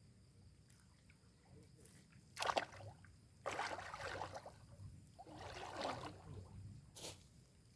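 Water sloshing and splashing in a few short bursts, the loudest about two and a half seconds in, with a brief sharp sound near the end.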